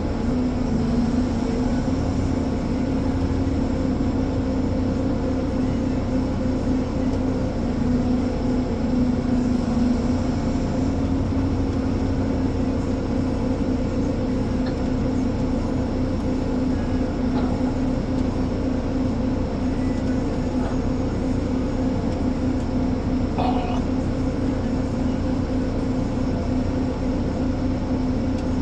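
Ponsse Elephant forwarder's diesel engine running steadily at a constant pitch, with one brief knock about two-thirds of the way through.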